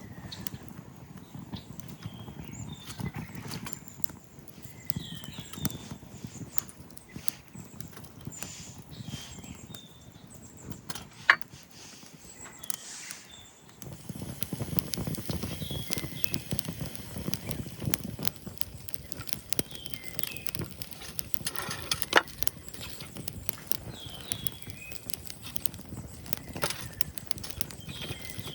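Wood fire crackling and popping in a small fire pit, with irregular clicks and two sharp loud cracks, about eleven and twenty-two seconds in.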